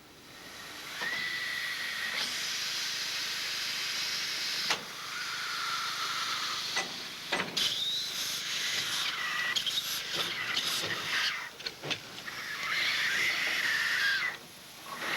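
Narrow-gauge plantation steam locomotive hissing loudly as steam escapes, with high whistling tones coming and going in the hiss and a few sharp knocks.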